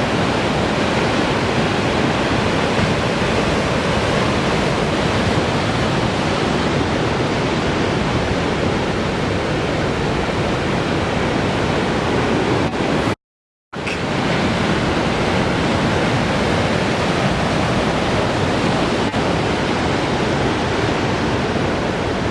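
Steady roar of heavy ocean surf with wind buffeting the microphone. The sound drops out completely for about half a second around the middle.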